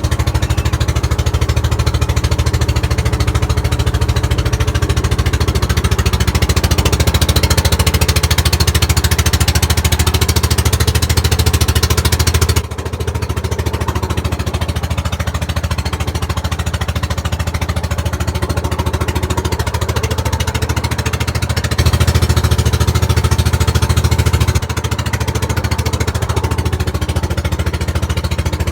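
A boat's engine running steadily underway, a loud, rapid, even pulsing with a heavy low rumble and a hiss of wind and water over it. The engine note drops a little about 13 seconds in, swells again for a few seconds around 22 seconds, then settles back.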